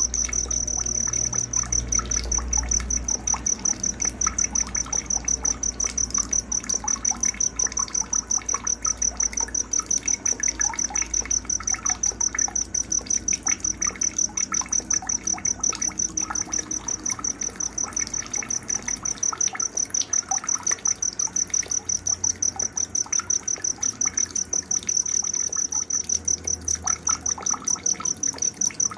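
Night nature ambience: a cricket chirping steadily at a high pitch, pulsing several times a second, with scattered bird chirps lower down.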